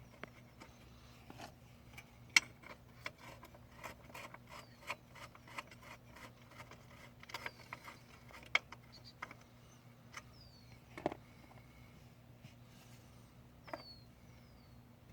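Scattered small metallic clicks and taps of hands, tools and bolts working at an engine's valve cover while a bolt is threaded in by hand, with two sharper clinks, one about two seconds in and one past the middle. A bird chirps several short falling notes in the second half.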